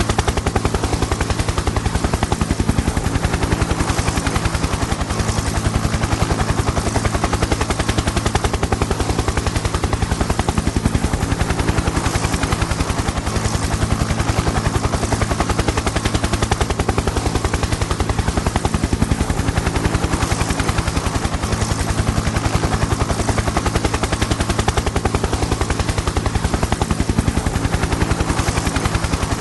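Helicopter in flight, its rotor blades beating in a rapid, even chop over a steady engine hum.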